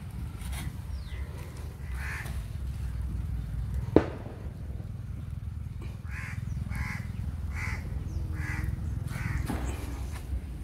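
A bird calling: one short call about two seconds in, then five calls about a second apart from about six seconds on. A single sharp click about four seconds in, over a low steady rumble.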